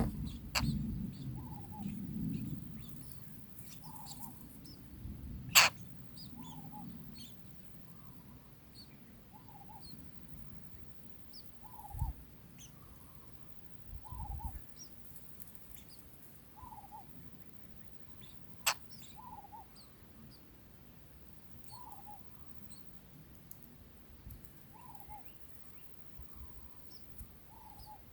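Wild birds calling faintly: a short low call repeated every second or two, with faint high chirps over it. Two sharp clicks stand out, one about a quarter of the way in and one about two-thirds of the way in.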